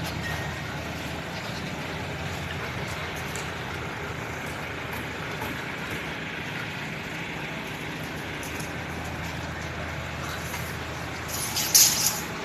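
Motor vehicle running steadily, with a brief loud hiss near the end.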